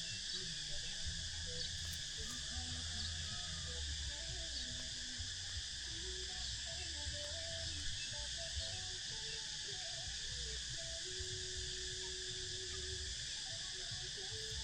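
A steady, shrill insect chorus, with a slow melody of low notes over it, one note held for about two seconds near the end.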